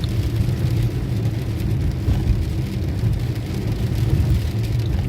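Car driving on a wet, slushy road, heard from inside the cabin: a steady low rumble of engine and tyre noise.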